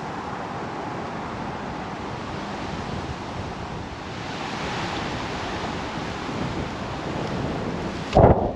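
Strong wind blowing through trees and buffeting the microphone, swelling about halfway through, with a sudden loud thump near the end.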